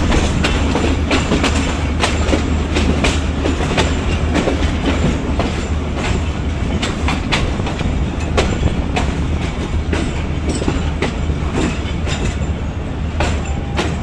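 Passenger train wheels clattering over rail joints and points at low speed, heard from aboard the coach: irregular sharp clicks over a steady low rumble.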